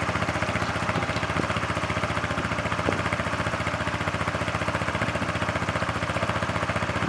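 2018 Yamaha Majesty S 155 scooter's single-cylinder four-stroke engine idling steadily with even exhaust pulses, running smoothly in the good condition the seller claims.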